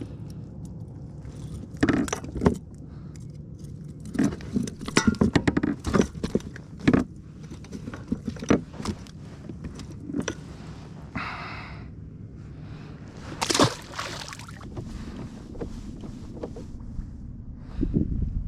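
Scattered clicks, knocks and metallic jingling of gear being handled on a kayak while a freshly caught trout is dealt with, with a louder sharp knock about two-thirds of the way through.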